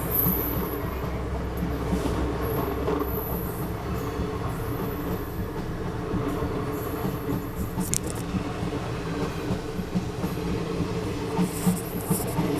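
Passenger express train running along the track: a steady rumble of the coaches, with a few sharper wheel clicks over rail joints near the end.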